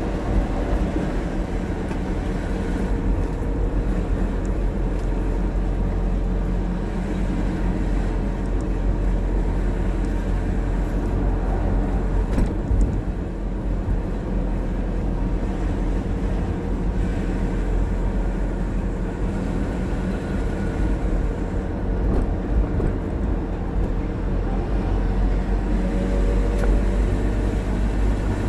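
A motor vehicle running steadily: continuous engine and road rumble with no letup.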